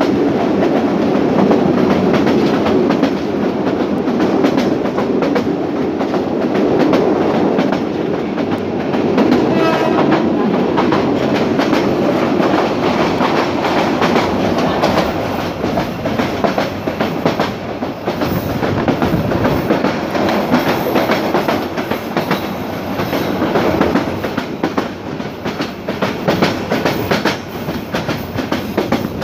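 Bangladesh Railway passenger train (the Kurigram Express) running at speed, heard from an open window of one of its carriages. Wheels rumble steadily on the track, with a rhythmic clickety-clack over the rail joints that becomes sharper and more distinct in the second half.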